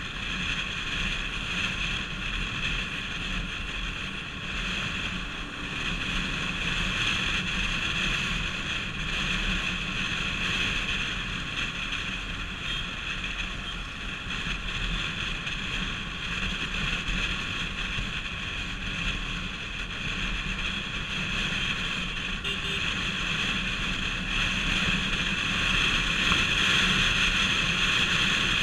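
Bajaj Pulsar RS200 motorcycle being ridden, its single-cylinder engine running steadily under wind rush over the microphone, growing a little louder near the end.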